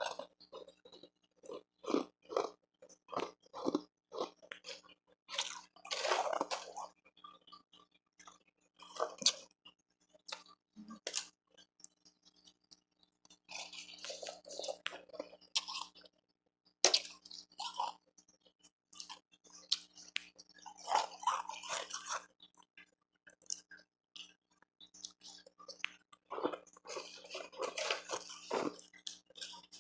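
Close-miked crunching and chewing of refrozen powdery ice and hard ice pieces: quick crisp bites at first, then bursts of crunching every several seconds.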